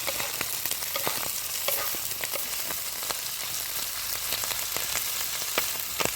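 Food frying in hot oil, a steady sizzle with frequent irregular crackles and pops.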